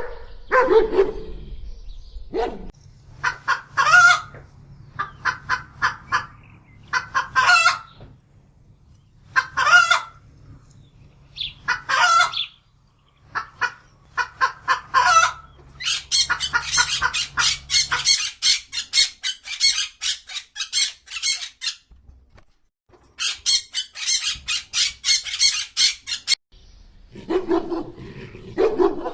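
Chickens clucking and squawking: a string of short calls, then two longer runs of rapid clucking.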